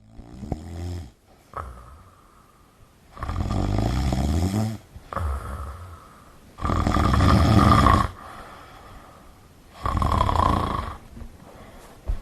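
A person snoring loudly, with a long snore about every three seconds and shorter, quieter breath sounds between.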